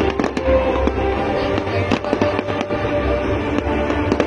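Fireworks display in a dense barrage: many bangs and crackling bursts in quick succession. Music with long held notes plays throughout.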